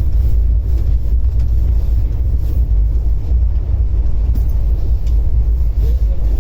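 Passenger express train running at speed: a steady low rumble of the coach on the track, with faint light clicks over it.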